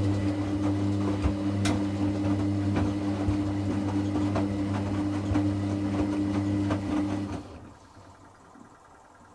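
Hoover Classica 1100 washing machine's drain pump running with a steady mains hum and irregular rattling and gurgling, then cutting off about seven and a half seconds in.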